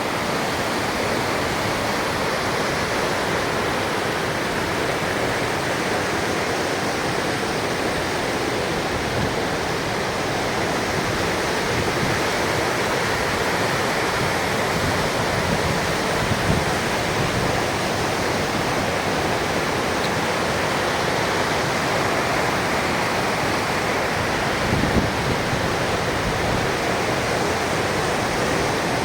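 Mountain river (Río Estós) rushing steadily, with a couple of brief low bumps about halfway through and near the end.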